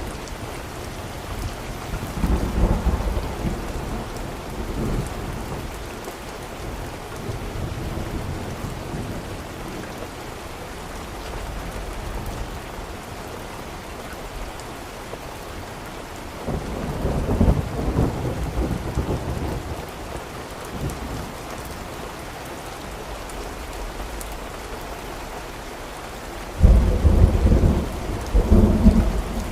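Steady rain with rolling thunder: low rumbles swell a few seconds in and again past the middle, and a sharper, louder thunderclap breaks near the end.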